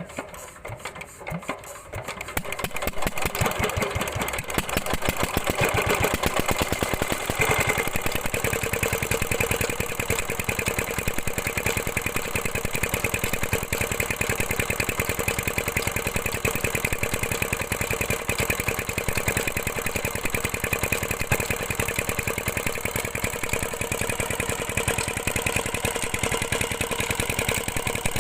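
Tube-well water pump's diesel engine starting: a few slow chugs, then it catches about two seconds in and runs with a steady rapid knocking beat.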